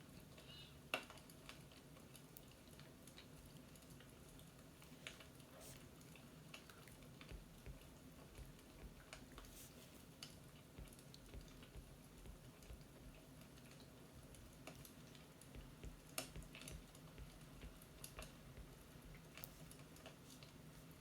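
Near silence with a low steady hum and faint, irregular sharp clicks and ticks scattered throughout, the loudest about a second in and another around sixteen seconds in.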